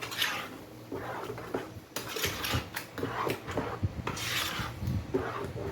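Spoon stirring and scraping thick grated-corn pamonha batter in a bowl, with irregular rasping strokes, a few stronger ones about two seconds apart.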